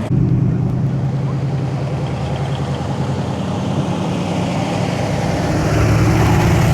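Car engine running at low revs with a deep, steady rumble, growing louder about five and a half seconds in.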